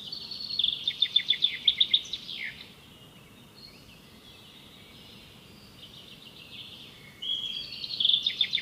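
Songbird singing: a phrase of rapid, high repeated notes ending in a downward slur, softer twittering in between, and the same phrase again near the end.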